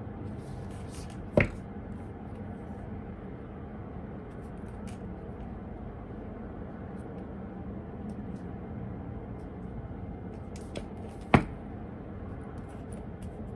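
Two sharp taps about ten seconds apart, with a few faint ticks just before the second, over a steady low hum of room noise.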